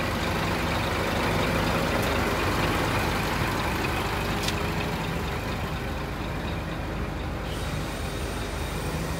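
Scania P 380 vacuum truck's diesel engine running steadily, with a single click about halfway through.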